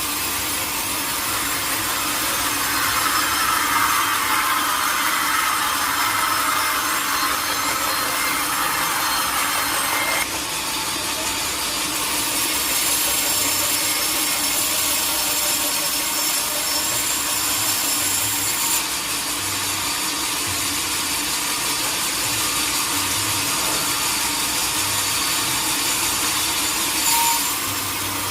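Sawmill saw cutting through a teak log: a steady sawing hiss over a constant machine hum. The sound shifts abruptly about ten seconds in and again a little past halfway.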